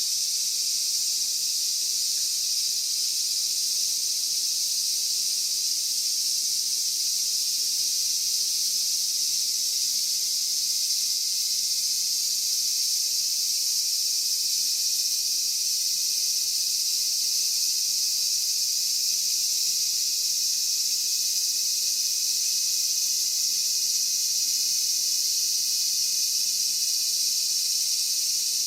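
A dense chorus of insects, a steady high-pitched shrilling that neither rises nor falls.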